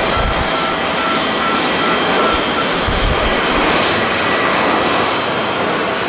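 Passenger jet engines running loud and steady, a rushing noise with a thin high whine, while gusts of wind buffet the microphone in irregular low thumps.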